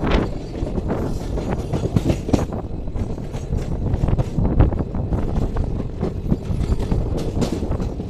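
Passenger express train coaches rolling slowly over yard tracks, heard from an open coach doorway: a steady low rumble with irregular clacks as the wheels cross rail joints and points.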